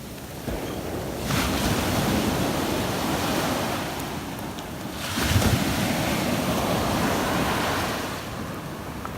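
Ocean surf breaking and washing up the beach, swelling twice about four seconds apart, with wind buffeting the microphone.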